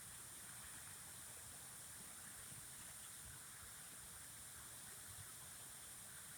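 Faint, steady running water, an even hiss with no breaks.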